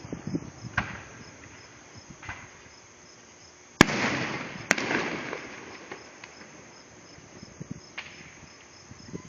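Fireworks going off: two sharp, loud bangs under a second apart near the middle, each trailing off over a second or two, with a few fainter pops before and after.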